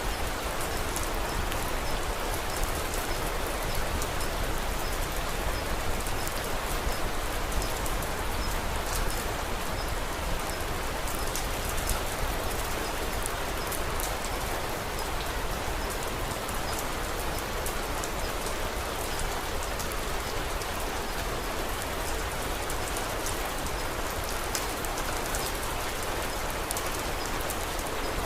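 Steady rain falling, with many faint scattered crackles of a wood fire.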